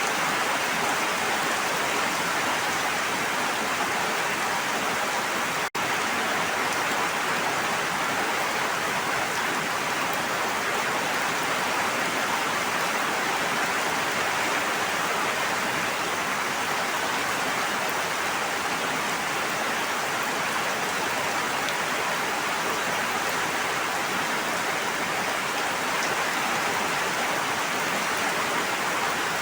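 Steady, even rush of water with a dense hiss, cutting out for an instant about six seconds in.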